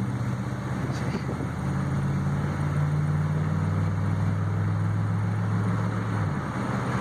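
Chevy pickup truck with a freshly rebuilt engine accelerating through its gears, heard from inside the cab; the engine note climbs and changes step with each smooth upshift, with a shift near the end.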